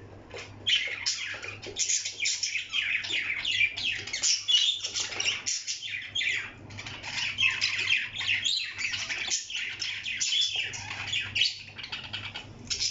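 Parrot squawking and chattering in a rapid, almost unbroken stream of shrill calls, with a short lull about halfway through.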